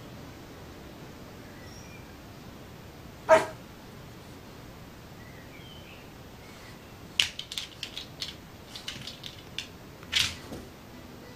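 A young dog gives one short bark about three seconds in; later comes a quick run of sharp clicks and knocks, then another short noisy burst near the end.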